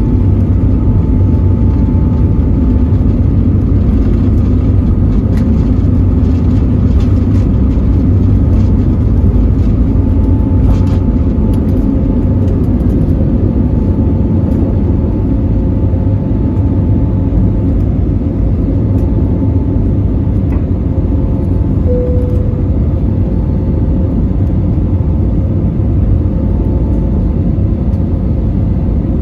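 Steady cabin roar of an Airbus A320neo airliner, engine and airflow noise heard from a passenger seat, with faint steady whining tones above it. A short higher tone sounds once, about two-thirds of the way through.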